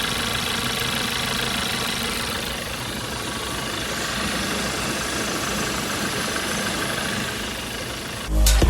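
Audi A1 1.4 turbo petrol engine idling steadily after its faulty water pump and pump belt were replaced. Loud music starts just before the end.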